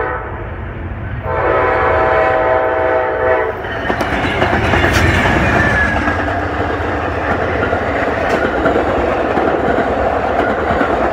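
Amtrak diesel passenger locomotive horn: a brief toot, then a long blast of about two seconds. The train then rushes past with steady wheel clatter on the rails.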